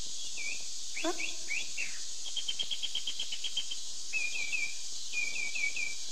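Small birds chirping, with short rising and falling calls and a quick trill of about ten notes a second near the middle, over a steady high hiss.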